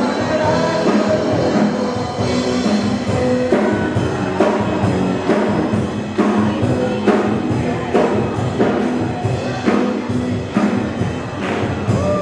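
Upbeat rock-style worship song with singing over a steady drum-kit beat.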